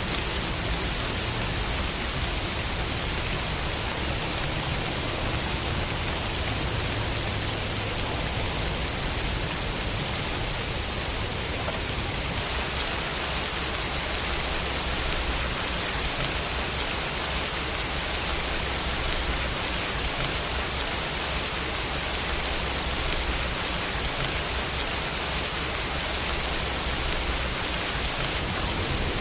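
Steady rain falling, an even hiss of many drops with a low rumble underneath, unchanging in level.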